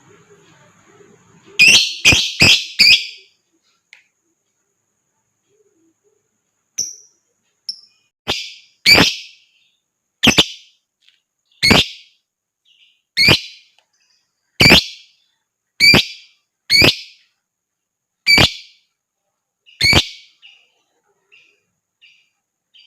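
Lovebird calling: a quick run of four sharp, shrill calls, then a string of single sharp calls, one about every second and a half.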